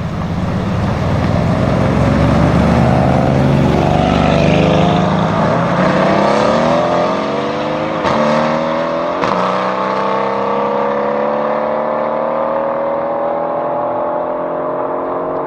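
Straight-piped Mercedes-AMG C63 S twin-turbo V8 accelerating hard, its exhaust note climbing in pitch, dropping abruptly twice with sharp cracks about eight and nine seconds in as it shifts up, then climbing slowly again.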